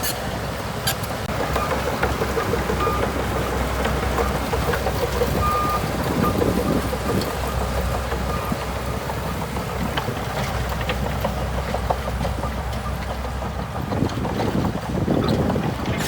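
Diesel engine of a heavy earthmoving machine, most likely the bulldozer, running steadily with a constant low rumble. There are a few brief high squeaks, and wind is blowing on the microphone.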